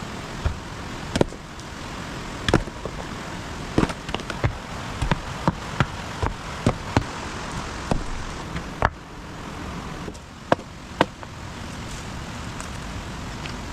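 Stones knocking against one another as they are gathered: a string of sharp, irregular clacks, over a dozen, over a steady background hiss.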